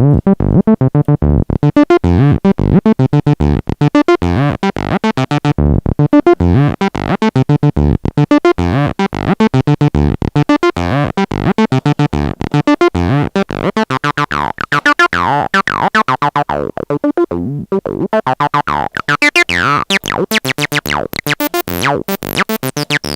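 Acid bassline from the AudioRealism ABL2 TB-303 emulation, played through a TB-303-style distortion plugin. It is a fast, steady run of short notes that turns brighter, with sweeping resonant filter glides, from about halfway through.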